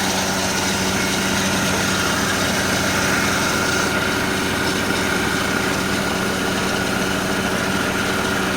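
Mercedes-Benz M271 four-cylinder engine idling steadily but running unevenly, like a misfire, as if a cylinder were missing. Typical of a vacuum leak, such as a vacuum pipe that has come off or cracked.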